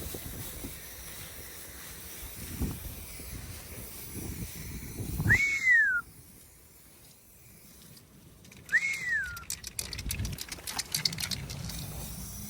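Two short whistles about three seconds apart, each note rising and then falling.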